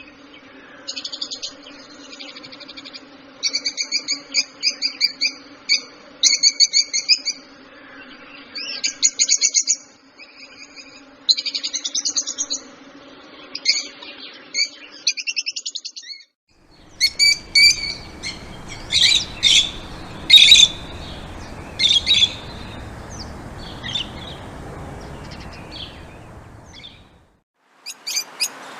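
Songbirds chirping in quick rapid-fire trills over a steady low hum. Partway through, the sound cuts to another recording with sharper, separate chirps over a background hiss.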